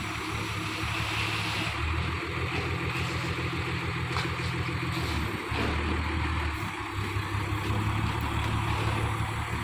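A heavy vehicle's engine running steadily, its low note shifting a couple of times.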